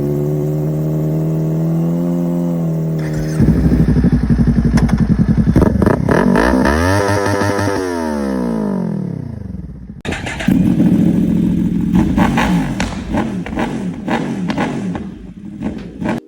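Sport motorcycle engines in several cut-together clips. The first holds a steady engine note. After a cut at about three and a half seconds a harder-running engine revs, its pitch climbing and then falling. After another cut at about ten seconds, a third engine runs and revs in short pulses.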